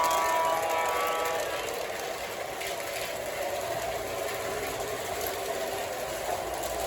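O gauge LionChief Plus 2.0 Santa Fe RS model diesel locomotive running on the layout. Its electronic horn sounds and fades out about a second in, leaving a steady running noise from the model train.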